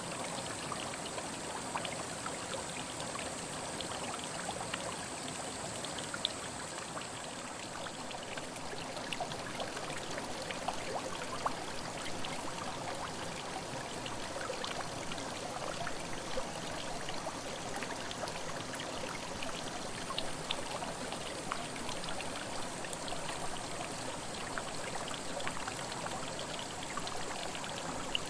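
Mountain headwater stream running over rocks: a steady rush of water dotted with many small splashes and droplet ticks.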